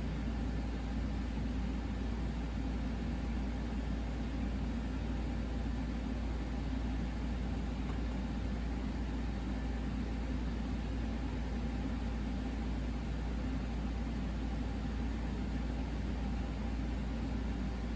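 A steady low hum with a hiss over it, unchanging.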